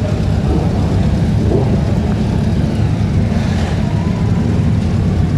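Classic motorcycle engine running with a loud, steady low rumble.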